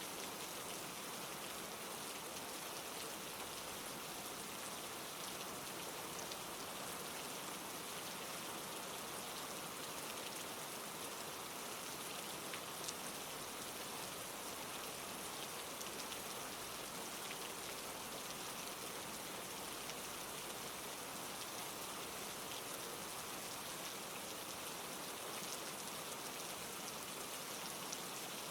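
Steady rain falling, a soft even hiss with scattered drops ticking.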